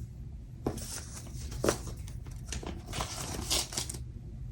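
Paper handling at a planner: stickers being peeled from a sticker sheet and pressed onto the page, a run of short scratchy rustles and light taps, over a steady low rumble.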